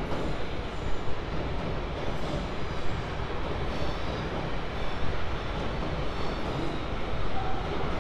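A train passing along the track: a steady rumble and rattle of wheels on the rails.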